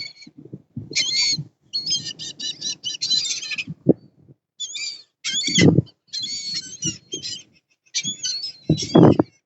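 Birds calling all around in short harsh notes, with one quick run of repeated notes about two seconds in. Two loud bursts of low rumble come a little past halfway and near the end.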